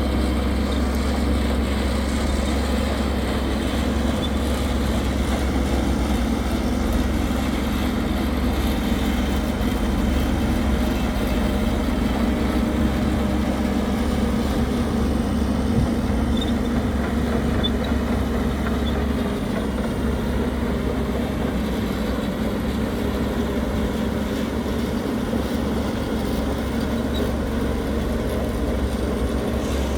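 Heavy diesel construction machinery running steadily, its engine sound low and even, easing off slightly in the low end about two-thirds of the way through.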